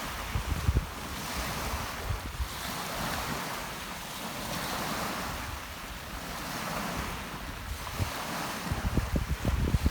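Rough sea surf washing and breaking on the shore, swelling and ebbing every few seconds under a steady hiss. Wind buffets the microphone in gusts about half a second in and again near the end.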